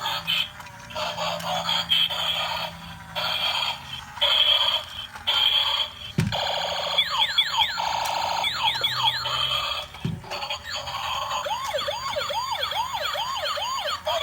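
Battery-powered toy police car's small speaker playing electronic sound effects: choppy beeping tones, then two runs of fast rising-and-falling siren wails. Two short low knocks sound between them.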